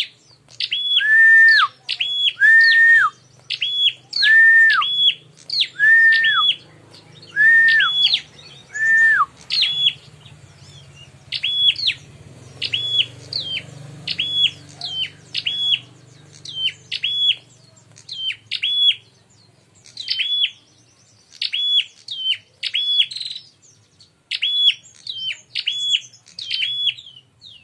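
Prenjak (prinia) singing a loud, repeated fighting song: whistled phrases about once a second, each with quick upward-swept notes. For the first nine seconds every phrase ends in a lower drawn-out whistle that falls away at its end.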